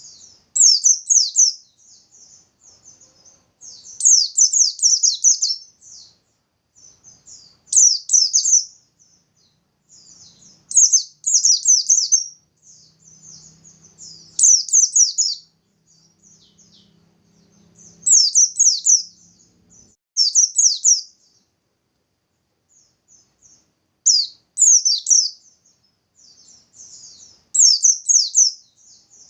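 Bustomi-type white-eye (pleci) singing in short bursts of rapid, high-pitched twittering, one phrase about every three to four seconds, each a second or two long.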